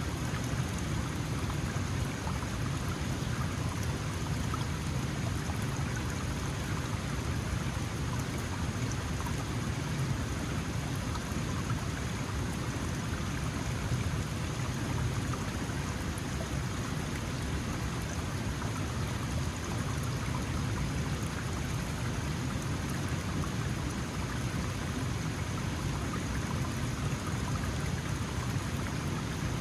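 Small mountain stream flowing steadily over rocks, an even rushing and splashing of water.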